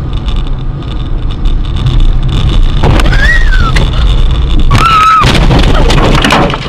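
Loud road and engine rumble of a car driving, heard from inside it. Two short high squeals rise and fall about three and five seconds in, followed by a rapid clatter near the end.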